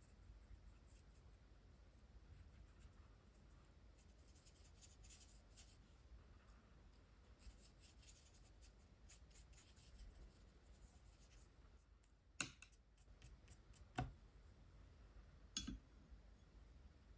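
Faint strokes of a water-based marker's brush tip moving across hot-press watercolour paper, then three sharp clicks about a second and a half apart near the end.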